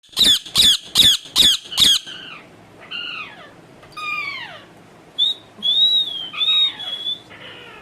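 Pet parrot squawking: five loud, harsh calls in quick succession, then a few softer calls that slide down in pitch, and from about five seconds in, higher whistled notes.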